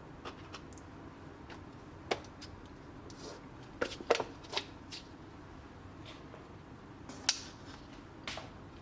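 A dozen or so scattered light clicks and taps, the loudest clustered about four seconds in and one more sharp tap about seven seconds in, over a faint steady room hiss.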